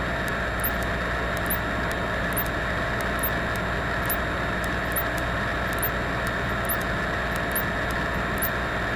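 Steady drone of a Cessna 172's engine and propeller inside the cabin, with faint high chirps repeating a little more than once a second.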